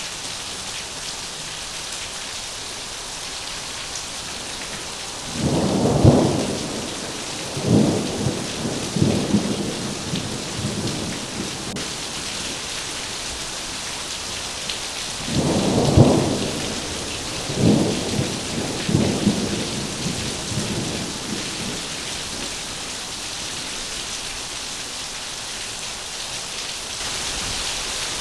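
Heavy rain falling steadily, with two rolls of thunder: one about five seconds in and another about fifteen seconds in, each opening with a loud crack and rumbling on in several waves for about five seconds.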